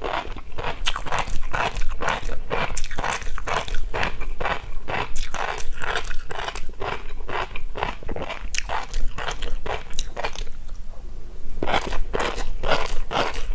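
Close-miked chewing of a mouthful of tobiko, fish roe crunching and popping between the teeth in a fast run of short crackles, about three a second. There is a brief pause about ten and a half seconds in before the chewing resumes.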